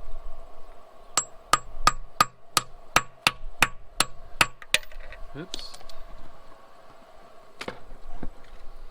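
Hammer tapping a steel 3/4-inch socket onto a nut welded over a twisted-off bolt: about eleven quick, evenly spaced metallic strikes, about three a second, then a single strike near the end.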